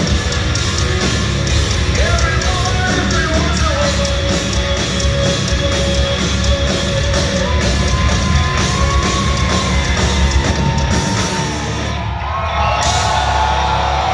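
Live hard rock band playing loud through a concert PA, with distorted guitars, drums and yelled, held sung notes, recorded from the audience. The sound thins briefly about twelve seconds in before the full band carries on.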